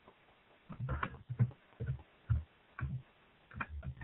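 Chewing a Pop-Tart close to the microphone: a run of short, wet chewing sounds about two a second, starting about a second in.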